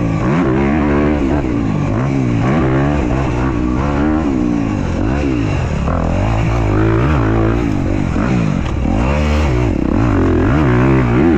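Dirt bike engine revving hard and falling back over and over, its pitch rising and dropping about once a second as the throttle is worked.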